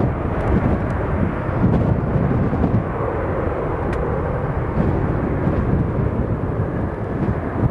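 Jet airliner departing at takeoff power, a steady low rumble, with strong gusty wind buffeting the microphone.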